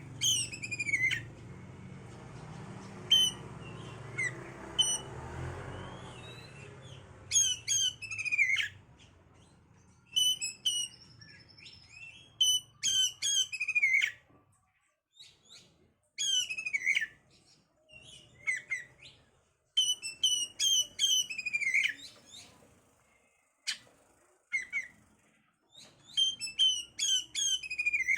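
Oriental magpie-robin (kacer) singing: bursts of sharp high notes, each ending in quick downward-sweeping whistles, repeated with short pauses between. A low rumble runs under the song for the first several seconds, then fades.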